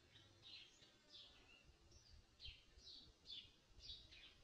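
Faint bird chirping in forest: a steady run of short, high, falling chirps, about two a second.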